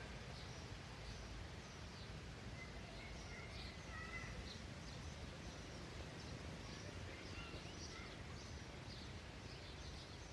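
Small songbirds chirping faintly: many short high chirps throughout, with a few brief whistled notes in the first half, over a steady low rumble of background noise.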